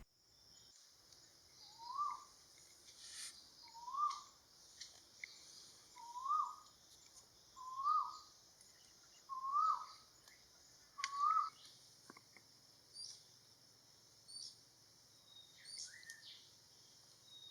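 Hooded pitta calling: six short whistled notes, each rising and then dipping, about one every second and a half, stopping about two-thirds of the way through. Faint high chirps of other birds come in near the end.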